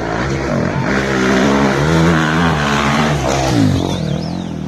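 Off-road rally motorcycle engine revving up and down under throttle, its pitch dropping about three and a half seconds in.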